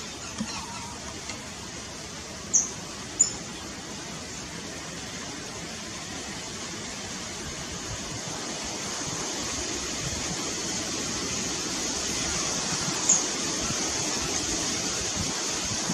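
Three brief, sharp, high bird chirps, two close together a few seconds in and one more near the end, over a steady rushing background noise that slowly grows louder.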